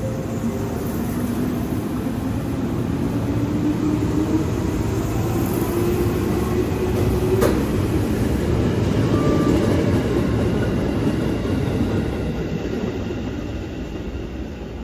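Train running along the station tracks. Its rumble builds toward the middle and then eases, a whine rises steadily in pitch over the first half, and there is one sharp click about halfway through.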